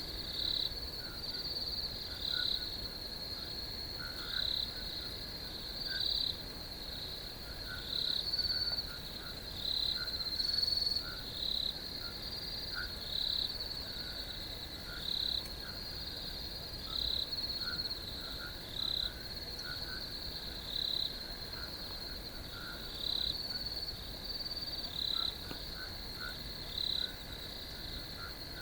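Crickets chirping: a steady high-pitched trill with a louder pulse roughly once a second, over fainter, lower chirping.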